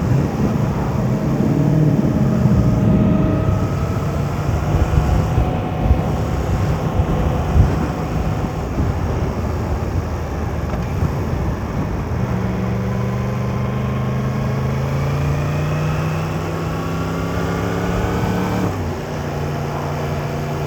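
Yamaha MT-10 motorcycle's inline-four engine running on the move, mixed with wind and road noise. Its pitch first eases down slightly, then climbs steadily for about six seconds under acceleration and drops suddenly near the end.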